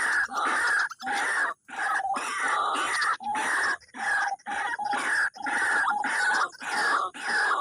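White-breasted waterhen (wak-wak) calls, repeated phrases one after another with short breaks between them.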